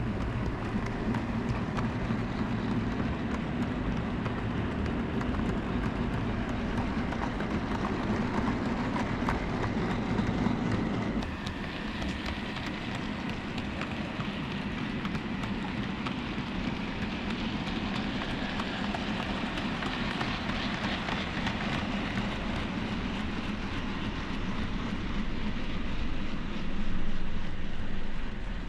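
OO gauge model train running along the layout's track, a steady mechanical running noise that changes character abruptly about eleven seconds in.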